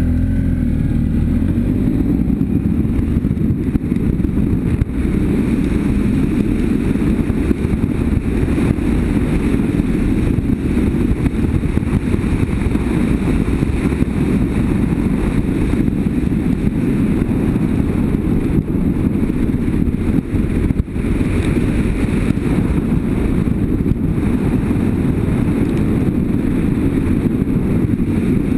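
BMW F800GS parallel-twin motorcycle engine running at a steady cruising speed, mixed with wind rushing over the microphone.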